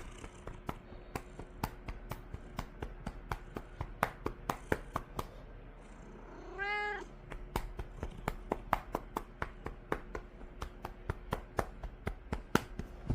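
A hand patting a cat in quick, steady taps, a few a second. About halfway through the patting pauses and the cat gives one short meow, then the patting goes on.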